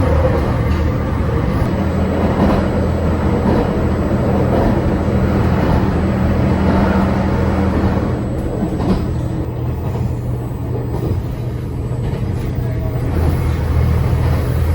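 A vehicle running with a steady low drone.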